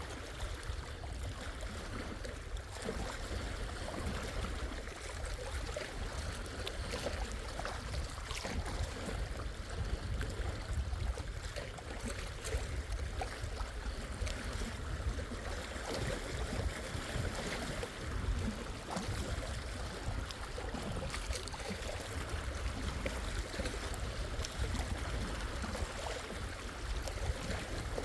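Gentle waves on Lake Superior lapping at the shore: a steady wash of water with many small splashes and clicks throughout, over a constant low rumble.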